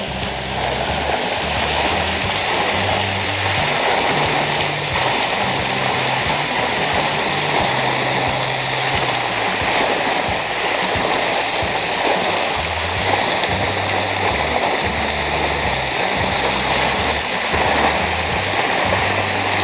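Steady hiss of rain falling, with background music's low bass notes stepping along underneath.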